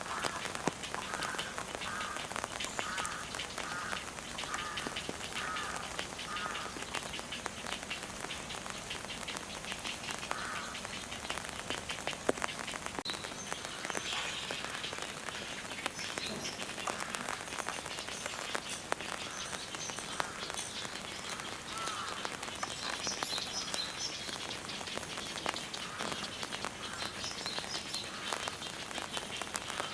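Steady rain with many small drop ticks. For the first six seconds or so a series of short calls repeats about twice a second, from a frog or bird.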